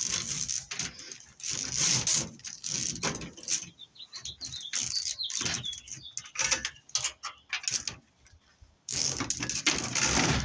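Scrap cable and metal parts being handled and sorted: irregular clinks, clatters and rustling, with a pause a little after eight seconds. A bird chirps faintly about four to five seconds in.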